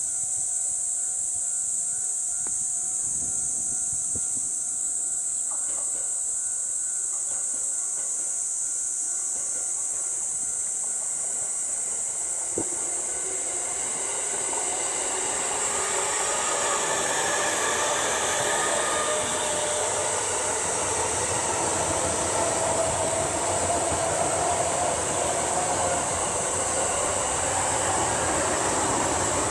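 JR East E231-series electric multiple unit of fifteen cars (a 5-car and a 10-car set coupled) passing on the track, its running noise building from about halfway through and growing louder to the end. A steady high hiss runs throughout.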